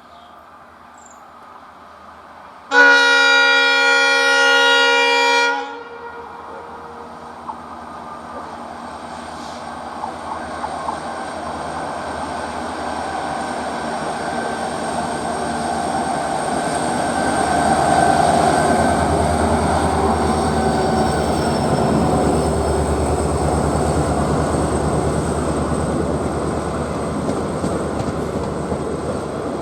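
Diesel locomotive horn sounding one long blast of about three seconds. Then an EMD WDP-4D diesel locomotive hauling a passenger train approaches and passes on the climb: its engine grows steadily louder to a peak about halfway through, and the wheels clatter over the rail joints.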